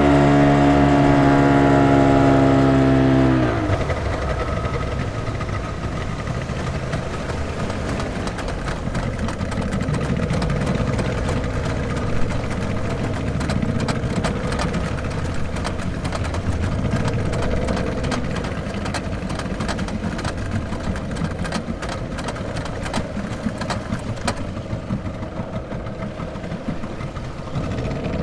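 Speedboat engine running with a strong, steady drone that dips slightly in pitch and then falls off in level about three seconds in. It keeps running after that, rougher and quieter.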